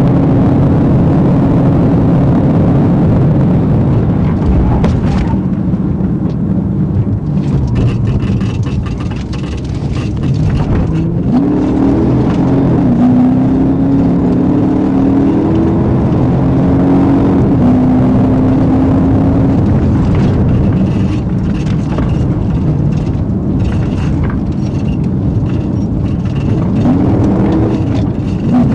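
Patrol car driving at high speed, heard from inside the cabin: a loud, steady engine and road rumble, the engine pitch stepping and sweeping up and down as it accelerates and shifts.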